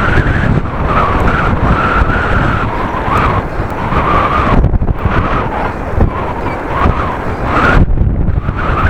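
Strong gusting wind buffeting the microphone of a camera in a waterproof case while cycling: a loud, uneven rumble that swells and dips, with a wavering whistle-like tone above it.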